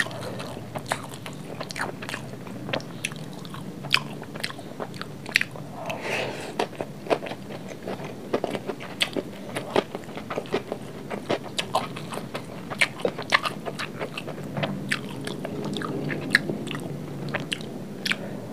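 Close-up chewing and crunching of a mouthful of fried rice, with many short wet mouth clicks, and a metal spoon scraping and clinking against a glass plate as more rice is scooped up.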